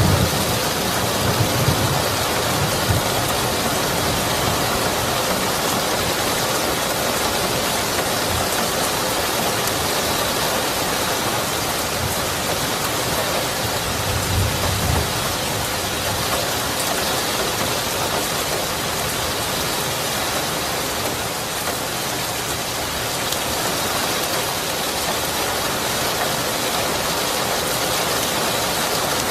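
Steady heavy rain, with low rumbles of thunder around the start and again about halfway through.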